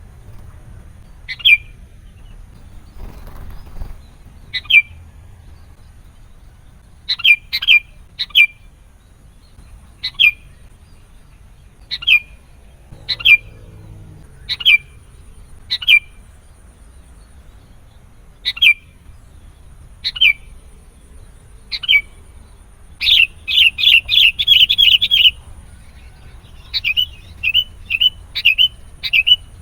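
Sooty-headed bulbul (kutilang) giving short, sharp calls, one every second or two. A little past two-thirds of the way through it breaks into a rapid run of about eight notes, then a quicker string of short notes near the end.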